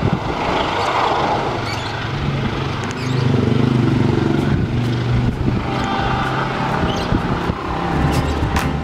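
Diesel-hauled passenger train running away over the rails, its wheel and track noise continuing as it recedes. A low steady engine hum comes in about three seconds in and holds for several seconds, with a few sharp clicks along the way.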